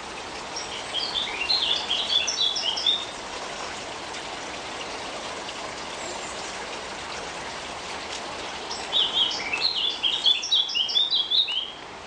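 A songbird singing two phrases of rapid, high notes, each about three seconds long, one near the start and one near the end, over a steady background hiss.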